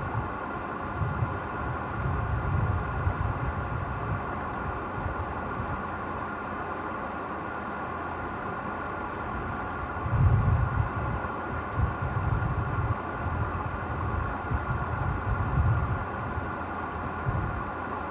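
A 4x4 vehicle's engine running steadily, with uneven louder low rumbles, strongest about ten seconds in.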